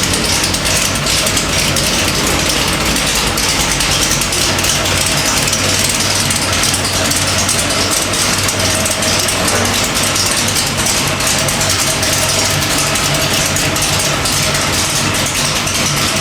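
Small-block Chevrolet 427 cubic-inch stroker V8 with AFR cylinder heads running on an engine dyno, holding a steady speed without revving.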